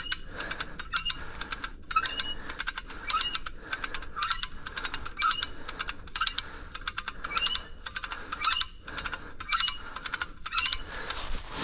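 Hand-operated ratcheting rope puller (come-along) being cranked to tension a pull rope on a tree. The pawl clicks in repeated strokes, about one a second, and each stroke carries a short rising squeak.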